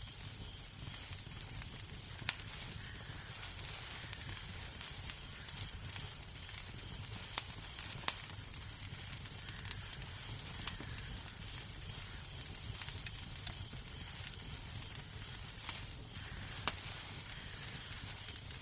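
Wood fire crackling in a fireplace: a steady low rumble and soft hiss with irregular sharp pops and snaps, a few louder.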